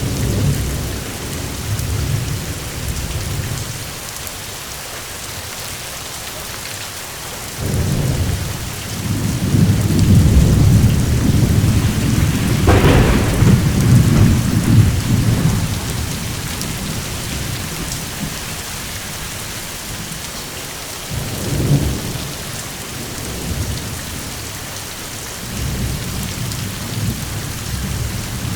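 Steady heavy rain hissing, with rolling thunder. A long loud rumble builds about a third of the way in, with a sharper crack at its peak, and shorter rumbles follow later.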